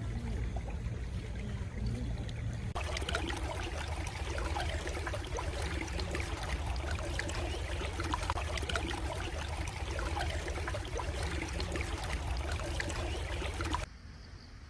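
A small stream trickling and splashing, with a steady low rumble underneath. It gets fuller and busier about three seconds in, then cuts suddenly to a much quieter background near the end.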